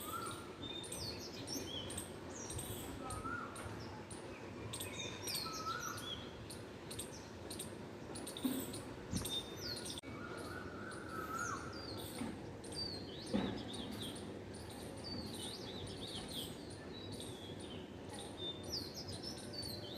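Several small birds chirping and calling at dawn, with many short high chirps over a steady background of low noise, and two brief knocks partway through.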